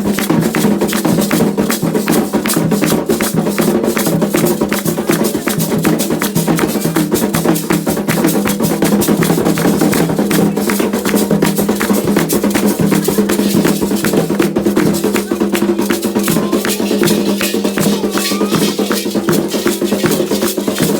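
Candomblé ritual percussion: hand drums played in a fast, steady rhythm with a shaker and sharp wood-block-like clicks.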